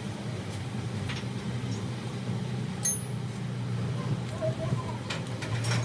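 Tractor engine running steadily at idle, with a sharp metallic clink about three seconds in and a few light clicks near the end.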